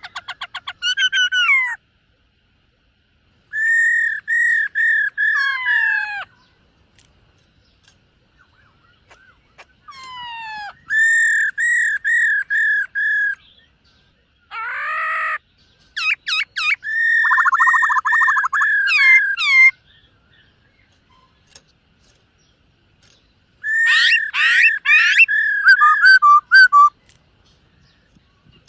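Black-throated laughingthrush singing in bouts of loud, clear whistled phrases, each a quick run of repeated notes that rise and fall in pitch, with pauses of a few seconds between bouts. One short harsh rasping note comes about halfway through.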